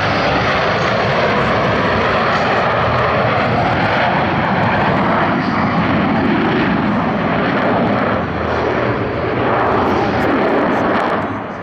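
Loud, steady roar of Blue Angels F/A-18 Hornet jets flying overhead. It fades away near the end.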